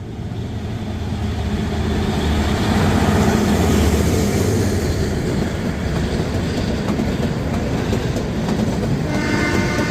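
Kalka–Shimla narrow-gauge train running, a steady rumble with the wheels clattering over the rails. A steady pitched tone comes in near the end.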